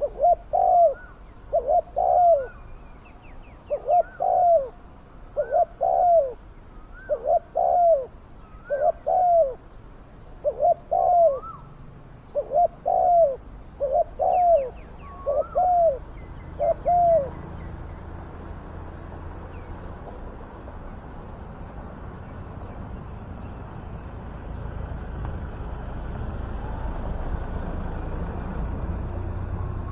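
Spotted doves cooing: a steady run of short, paired coo phrases every second or two, which stops about 17 seconds in. After that a low rumble slowly grows louder.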